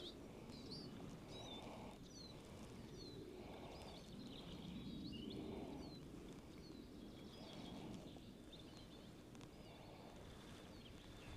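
Faint birdsong: many short, quick chirps, scattered throughout, over a soft low outdoor background noise.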